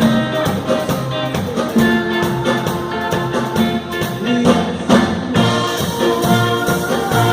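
Instrumental passage of a band song: brass horns playing held melody notes over a steady drum beat, without singing.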